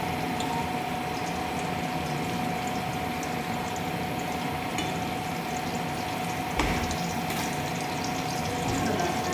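Steady sizzling of chicken curry cooking in a pan, over a constant hum, with a single knock about six and a half seconds in.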